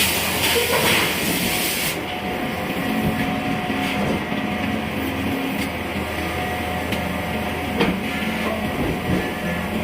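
Heavy forge-shop machinery running steadily with a low drone and a few held tones. A loud hiss for the first two seconds, then a few sharp clicks, the strongest about eight seconds in.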